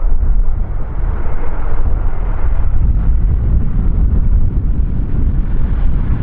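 Strong wind buffeting the microphone: a heavy, fluttering rumble with no let-up.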